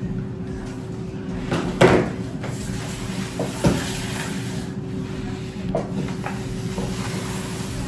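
A few knocks and thumps of food trays being moved and set down on a table, the loudest about two seconds in and another near four seconds, over a steady low hum.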